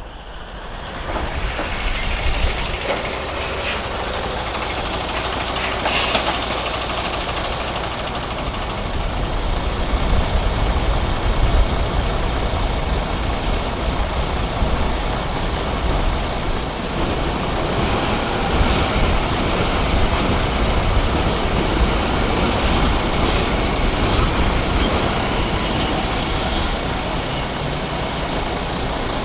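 A train passing through a railway level crossing: a continuous rumble and rolling wheel noise that builds about a second in and carries on to the end. A brief high squeal comes about six seconds in.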